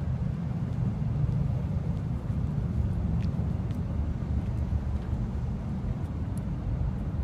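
Car running, a steady low rumble with a few faint ticks.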